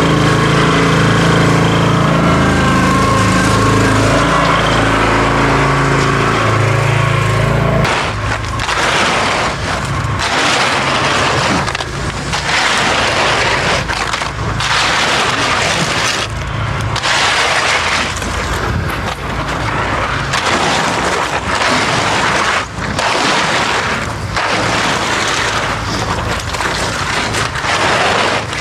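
A small engine runs steadily for about eight seconds, then stops abruptly. Loud, irregular scraping and crunching strokes follow, typical of tools working wet concrete.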